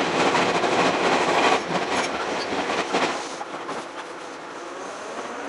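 Running noise of an Ohmi Railway 100 series electric train (former Seibu 101 series), heard from inside the car, with scattered clicks of the wheels on the track. The noise is louder while the train is in a tunnel and drops off about three seconds in as it leaves.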